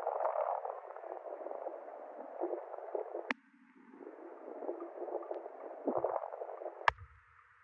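Wind gusting over the microphone in a snowstorm, a rushing noise that rises and falls and twice drops out briefly, with two sharp clicks, about 3 seconds in and near the end.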